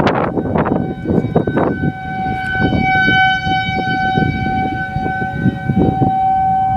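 Outdoor civil-defense warning siren sounding a steady, unwavering tone, swelling somewhat louder a few seconds in. Loud irregular low noise lies beneath it, heaviest in the first two seconds.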